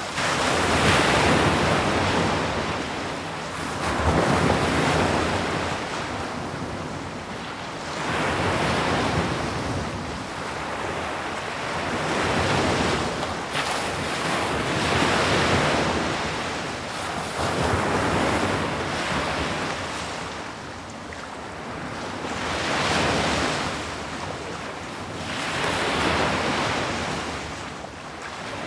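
Sea waves breaking on a shore: a continuous hiss of surf that swells and falls back in slow surges, one every three to four seconds.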